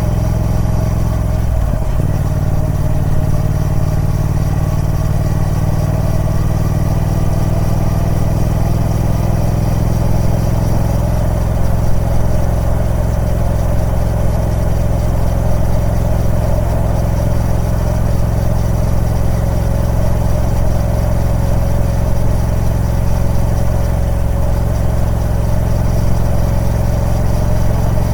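Triumph Speed Twin 1200's parallel-twin engine running at steady revs through its stock exhaust. About two seconds in, the note briefly dips and drops in pitch, then settles again.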